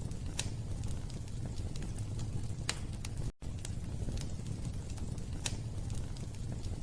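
Wood fire burning in a fireplace: a steady low rumble of flames with occasional sharp crackles and pops. The sound cuts out for a moment about halfway through.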